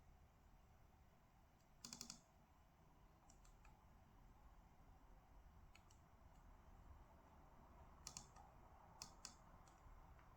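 Faint, scattered clicks of computer keyboard keys, a few at a time, in short clusters about 2 seconds in and again near 8 and 9 seconds, over a low room hum.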